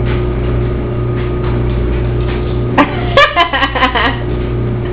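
A steady low hum, with a burst of short, high-pitched vocal sounds and sharp clicks lasting about a second, starting nearly three seconds in.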